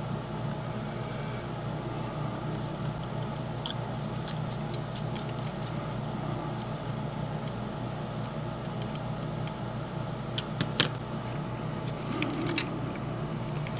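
Steady mechanical hum, with a few small clicks and taps of parts being handled as a model locomotive's rear truck is fitted back on; the sharpest clicks come a little after ten seconds in.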